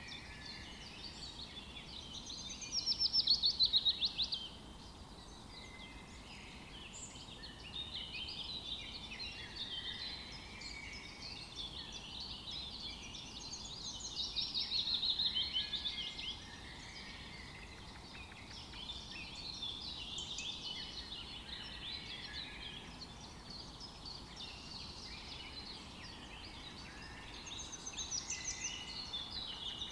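Several songbirds singing at once in a forest, overlapping chirps and trills throughout. Louder, fast trilled phrases stand out about three seconds in, again about fifteen seconds in, and near the end.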